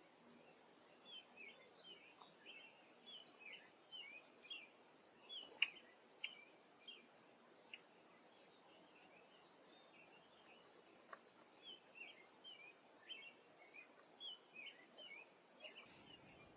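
Small birds chirping faintly: quick series of short, high chirps in two bouts, the second starting about eleven seconds in, with one sharp click about five and a half seconds in.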